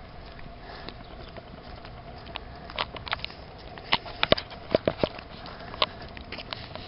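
Footsteps and handling taps while walking with a handheld camera: irregular sharp clicks, bunched together around the middle, over a faint steady hum.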